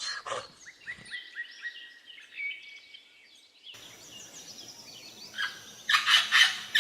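Small birds chirping in quick, short calls, with a change in the background a little over halfway through. Near the end comes a run of louder, short, harsh sounds.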